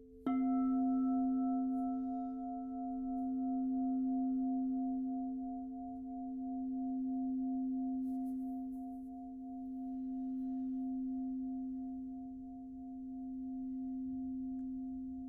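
A singing bowl struck once about a quarter of a second in. Its low tone and higher overtones then ring on, slowly fading, with a slow wavering swell in loudness every few seconds.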